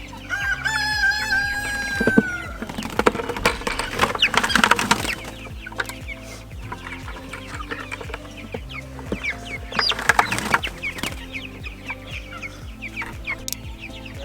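A flock of young meat chicks peeping and clucking in a dense chatter of many short calls, busiest about four seconds in and again about ten seconds in. Near the start one long drawn-out call is held for about two seconds and drops in pitch at its end.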